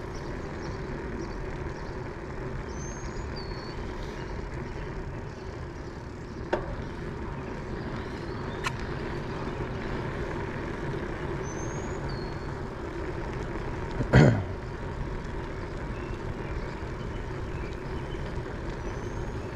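Steady road and traffic noise during a bike ride, with faint high bird chirps several times. About fourteen seconds in there is a brief louder sound that falls in pitch.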